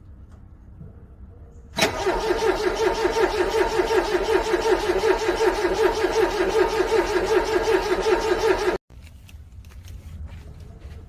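Car engine cranking on its starter in the cold, an even pulsing churn of about four to five beats a second that stays the same for about seven seconds without the engine catching, then cuts off suddenly.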